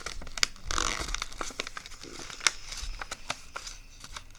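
A sheet of paper being folded and creased by hand: crinkling and rustling with many small sharp crackles as the folds are pressed flat.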